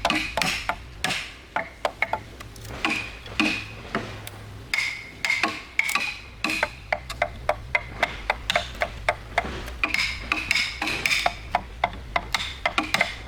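Hand tools knocking and scraping on wood: an uneven, rapid run of sharp knocks, several a second, with rasping scrapes between them.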